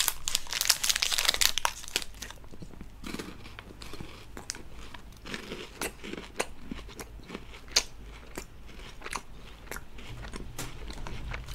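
Chewing KitKat chocolate-covered wafer bar: a dense run of loud crunching for the first two seconds, then quieter chewing with scattered crisp crunches.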